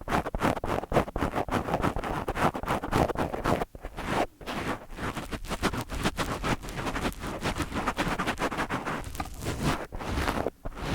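Fingers rubbing, scratching and tapping directly on a microphone, a quick, continuous rustle of close scratchy strokes with a couple of brief pauses about four seconds in.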